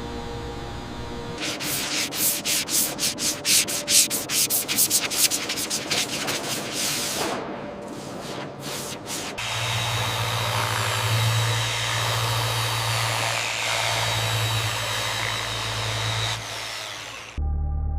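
Rhythmic hand sanding or scraping strokes on metal, about three to four a second, which thin out, then an electric power tool, likely a sander, runs steadily for about eight seconds with a low hum and stops abruptly.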